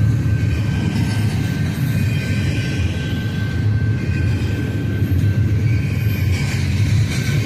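Intermodal freight train's cars rolling past, a steady rumble of steel wheels on rail, with a thin steady high tone riding above it.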